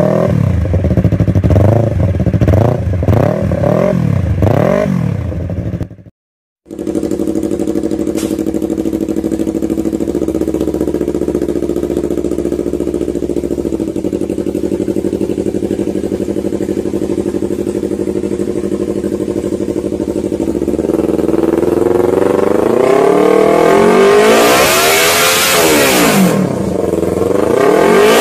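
Yamaha R3 motorcycle's parallel-twin engine through an aftermarket exhaust, revved in quick blips at first, then idling steadily after a short cut, then revved up and down again near the end. A loud rushing hiss joins it for about two seconds during the late revving.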